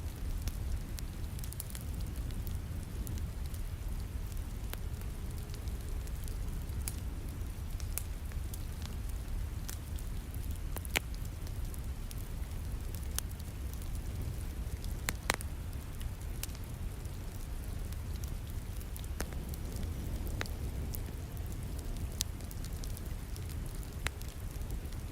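Wood fire crackling with scattered sharp pops, the loudest about eleven and fifteen seconds in, over a steady bed of falling rain and a low rumble.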